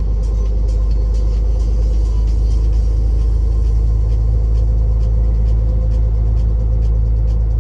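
Truck's diesel engine running at a steady cruise with a deep rumble and tyre and road noise, heard inside the cab. A light, regular ticking comes and goes over it.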